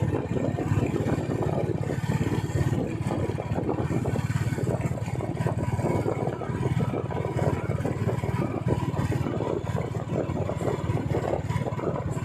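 Royal Enfield motorcycle engine and exhaust running steadily under way, a fast, even low thumping that holds at one speed.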